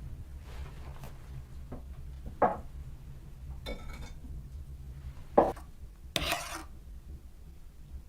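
Handling noises of small hard objects: two sharp knocks and two short rattling scrapes, spaced a second or more apart, over a steady low rumble.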